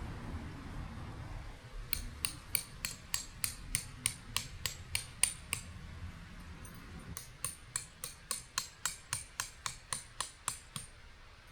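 Light metallic tapping or clicking with a bright ring, about three or four strikes a second, in two runs with a short pause between them.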